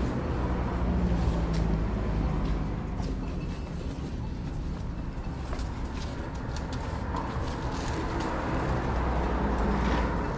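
Steady low rumble of outdoor background noise with a few faint scattered clicks.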